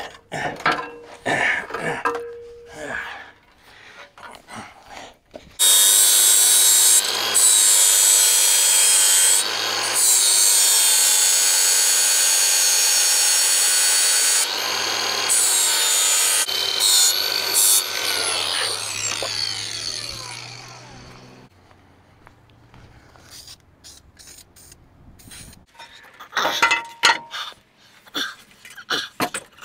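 Angle grinder grinding metal off the truck's cab hinge for about twelve seconds, with a few brief lifts, then switched off and winding down with a falling whine. Metal clanks and knocks come before and after the grinding.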